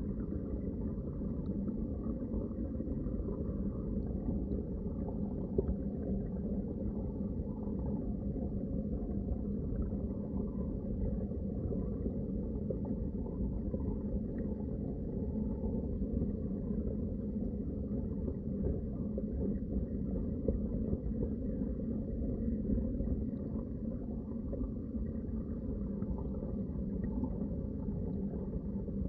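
Underwater water sound: a steady, muffled low rumble with no distinct events.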